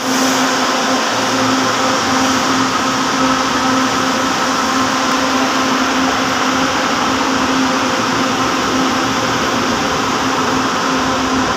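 Electric light-rail train running alongside the platform: a loud, steady hum with a constant low tone and a fainter higher one over an even rushing noise.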